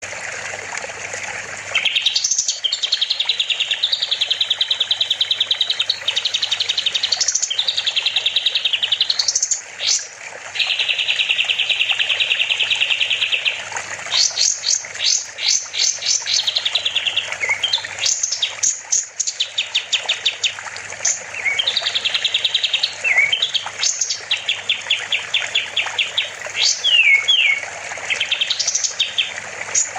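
Kapas tembak songbird singing a loud, energetic song: long, fast buzzy trills lasting a few seconds each, broken by quick rising sweeps and rapid strings of sharp notes. A faint steady hum runs underneath.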